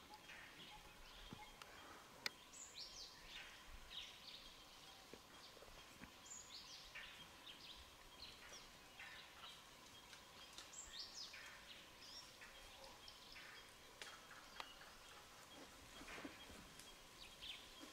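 Faint forest ambience with a bird calling over and over: short high notes that fall in pitch, one every second or two. A single sharp click comes about two seconds in.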